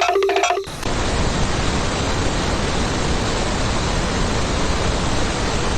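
A repeating musical phrase that cuts off suddenly under a second in, followed by a loud, steady, even rushing noise with no pitch or rhythm.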